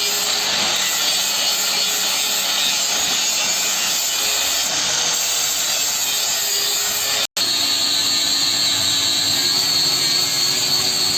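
Electric grinder running steadily against steel, a continuous grinding hiss with a thin high whine. It breaks off for an instant about seven seconds in, then carries on.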